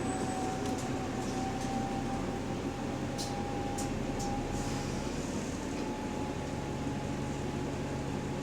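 Inside a moving bus: steady running noise with a thin whine that drifts slightly in pitch, which the rider takes for a subtle, weird differential noise. A few light rattles sound in the first half.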